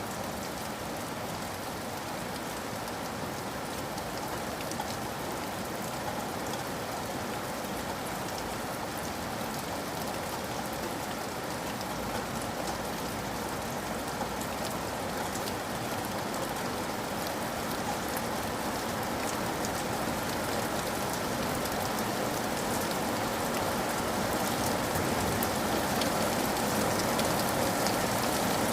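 Steady rain falling on a surface, a constant hiss with fine drop patter, growing slowly louder.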